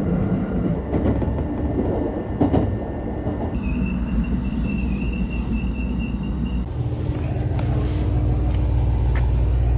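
Train running, heard from inside the car: a steady rumble that changes abruptly twice as clips are cut together. The middle stretch carries a steady high whine, and the last stretch a heavier low rumble.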